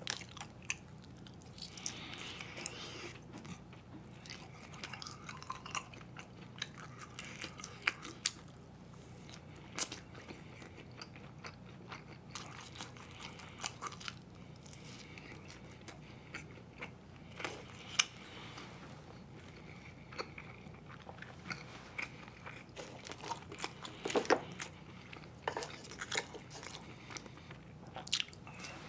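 Chewing and biting as a man eats sotteok-sotteok (a skewer of sausage and rice cake), with scattered sharp clicks and crunches.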